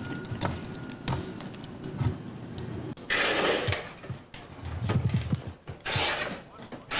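Hand work on an old wooden window sash as its glass pane is worked loose: light knocks and clicks, with two longer rasping scrapes about three and six seconds in.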